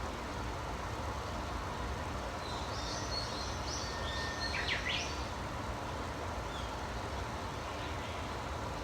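A small bird gives a brief burst of quick chirps and sweeping notes about three seconds in, over a steady low rumble of outdoor background noise.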